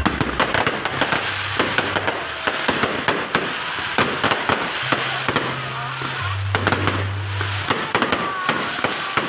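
Fireworks display: many shells and crackling-star effects going off together, a dense, unbroken stream of rapid pops and crackles.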